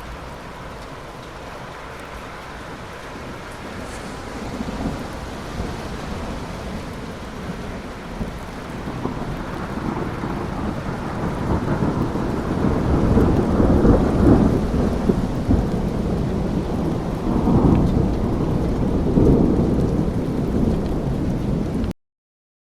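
Steady rain with thunder rumbling, growing louder from about halfway through with several heavy rumbles, then cutting off suddenly near the end.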